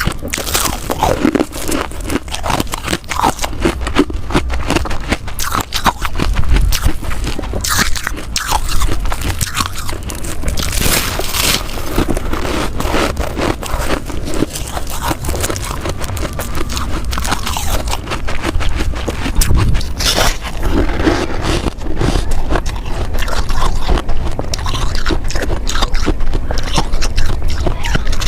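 Ice being bitten and chewed close to the microphone: dense, irregular crunching and scraping that goes on without a break.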